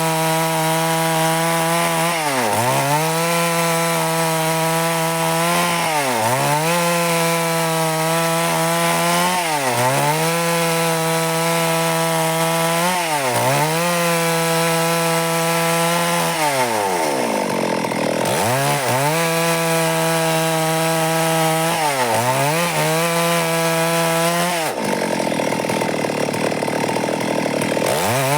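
Stihl MS 382 two-stroke chainsaw running at high revs while sawing wood into boards, its engine pitch dipping and recovering every three to four seconds. Near the end the steady tone turns rougher for a few seconds.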